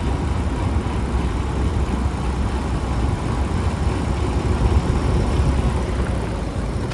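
Steady low rumble of riding a motorbike through city traffic.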